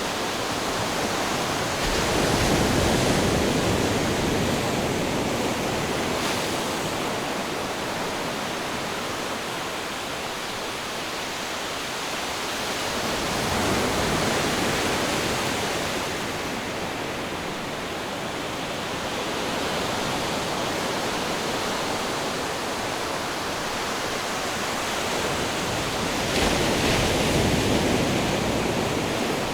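Ocean surf washing continuously on a shore, swelling louder as waves break three times, about every twelve seconds.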